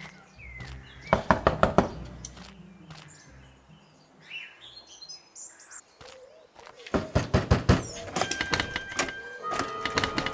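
Two bursts of rapid, sharp knocks: about half a dozen about a second in, then a longer, denser run from about seven seconds in. Faint bird chirps fall in the quieter stretch between them, and music comes in near the end.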